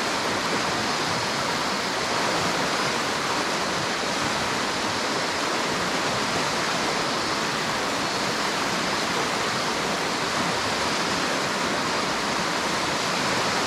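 River water rushing and splashing steadily, a constant even noise with no breaks.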